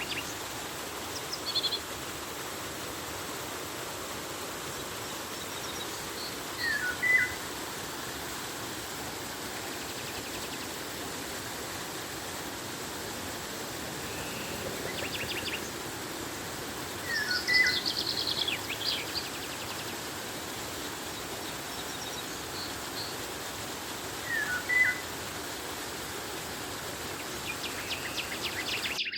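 Steady rush of flowing river water, with birds calling over it now and then. A short call with a quick pitch glide comes three times, several seconds apart, and a burst of rapid high chirps comes around the middle.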